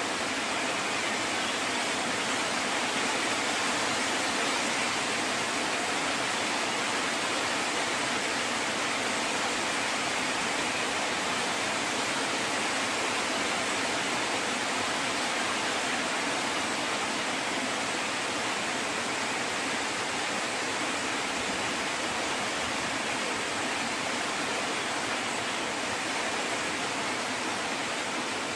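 Steady rainfall, an even hiss with no thunderclaps.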